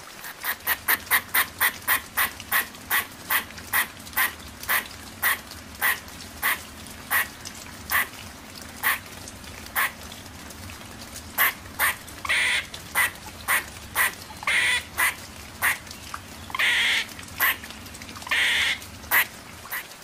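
Squirrel calling: a long series of short, sharp chirps, quick at first, about three a second, then slowing to about one a second. In the second half a few longer, raspier calls are mixed in.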